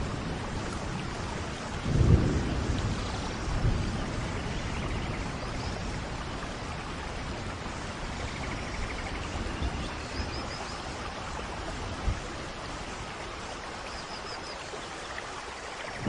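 Steady tropical rain falling, with low rumbles of thunder, the strongest about two seconds in. A few faint, high bird chirps sound near the middle and toward the end.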